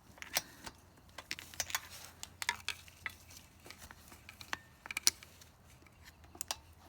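Irregular small clicks and taps from a carburetor and its fittings being handled and pushed into place on a Yamaha YZ80 dirt bike, with sharper knocks about half a second and five seconds in.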